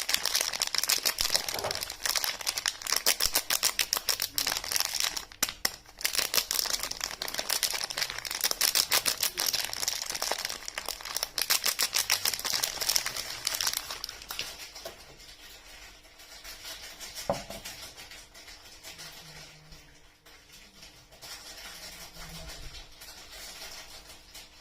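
Soap packaging crinkling as it is handled and unwrapped: a dense run of rapid crackles for over half the time, then softer, sparser rustling with a single sharp click.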